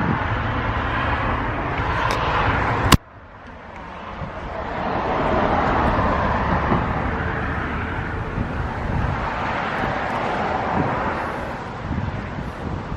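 Outdoor road traffic noise, a steady rushing hiss that cuts off abruptly about three seconds in, then returns as a vehicle passes, swelling and fading away.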